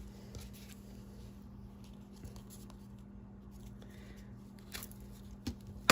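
Faint rustling and scratching of fabric and paper as loose fabric scraps are picked and pulled off a collaged playing card, with scattered small clicks over a steady low hum.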